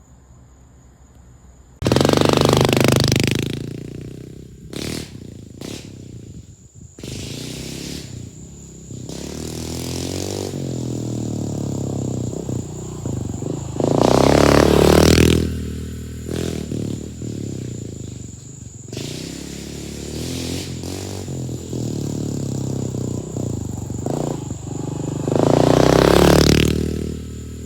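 Pit bike engine running and revving as it laps a small track, getting loud three times as it comes close (shortly after the start, about halfway, and near the end) and fading to a quieter engine sound in between.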